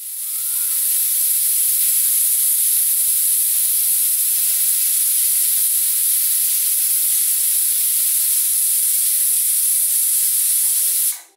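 Pressure cooker whistle: steam venting out under the weight as a steady, high hiss that builds over the first second and cuts off suddenly near the end. This is the cooker at full pressure.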